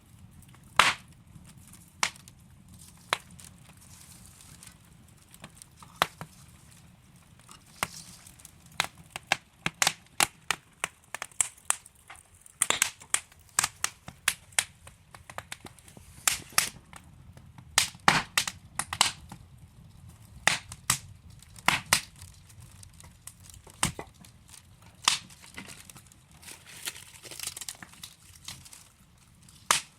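Wood fire crackling in a fireplace: irregular sharp pops and snaps of burning logs over a faint low rumble of the flames, busiest in the middle.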